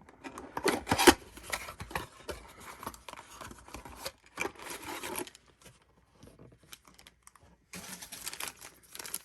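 Trading-card blaster box and its pack wrappers being opened by hand. It comes in short clusters of tearing, crinkling and scraping: one group about a second in, another near the middle, and a last one near the end after a quiet pause.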